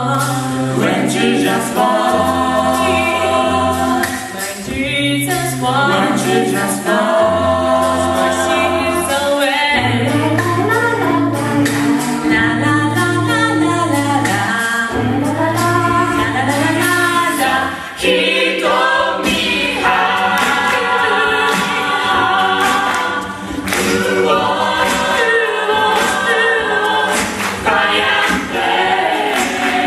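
An a cappella vocal group singing a gospel-style arrangement in close harmony, with no instruments. A bass voice holds long low notes under the changing chords of the upper voices.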